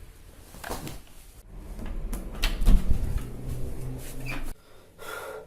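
A series of knocks and bumps, like a cupboard or door being handled, with the loudest thump a little under three seconds in.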